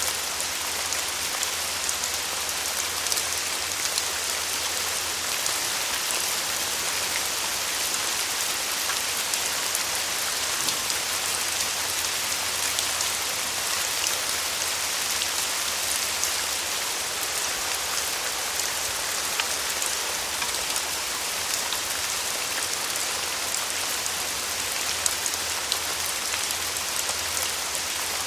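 Steady rain falling, a dense even patter of many small drops hitting a surface.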